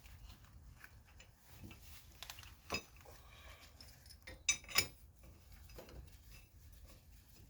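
Metal tools and hardware clinking as they are handled: one clink a little under three seconds in, then two louder, ringing clinks in quick succession near the middle.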